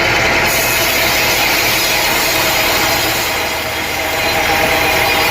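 Sawmill saw cutting through a teak log, a steady loud grinding noise with a running motor under it.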